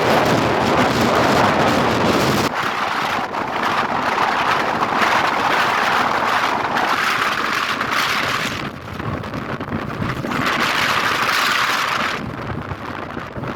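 Wind rushing and buffeting over the microphone, with a steady rumble of road traffic beneath; the rush rises and falls every few seconds.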